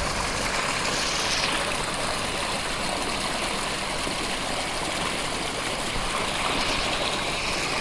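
Steady rush of water gushing from a borewell's outlet pipe while the electric pump runs.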